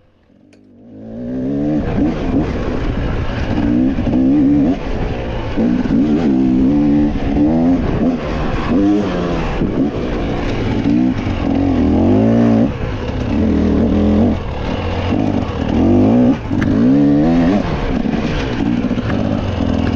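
Off-road dirt bike engine revving hard under race load, its pitch climbing and dropping again and again as the rider works the throttle and shifts. It fades in over the first second or so.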